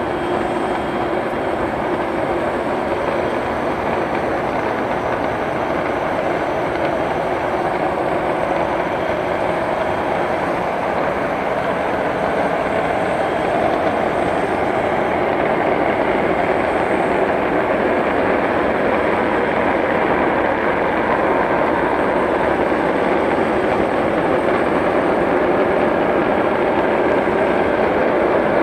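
Tu-160 strategic bomber's four NK-32 turbofan jet engines running at high power: a loud, steady, rushing noise that grows slightly louder about halfway through.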